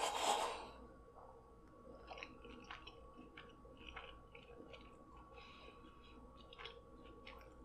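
Close-miked mouth sounds of a person chewing a mouthful of cheesy, sauce-covered seafood: soft, irregular wet clicks and smacks. A brief louder breathy rush comes right at the start.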